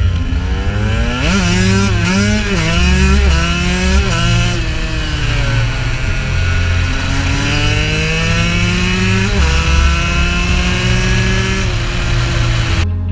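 KTM 125 two-stroke dirt bike engine revving: several quick blips up and down in the first few seconds, then a long steady climb in revs that levels off and holds. The engine sound cuts off suddenly near the end.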